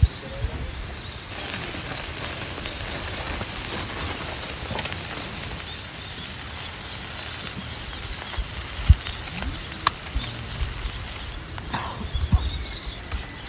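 Food sizzling over heat in a steady hiss that starts abruptly just after a second in and cuts off about ten seconds later, with a few light knocks near the end.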